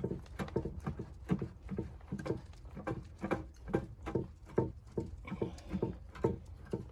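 Footsteps crunching through snow at an even walking pace, about two steps a second.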